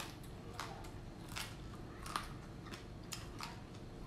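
Close-up crunchy chewing of a mouthful of crispy butter-fried field rat, with several sharp crunches a second or so apart.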